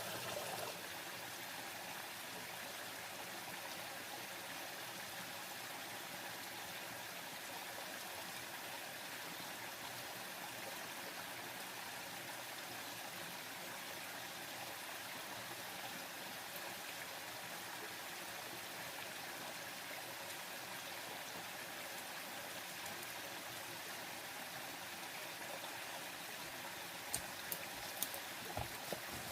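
Stream water running steadily, an even rushing hiss. A few sharp clicks come near the end.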